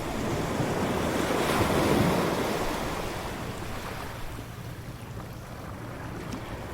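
Waves breaking on a beach: one wave swells in and crashes about two seconds in, then washes back and fades to a steady surf hiss, with low wind rumble on the microphone.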